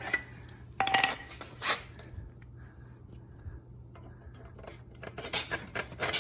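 Steel stand parts and a bolt clinking, with one sharp ringing metal knock about a second in. Near the end, quick repeated rasping strokes start: a round file widening a misaligned bolt hole in a steel stand leg.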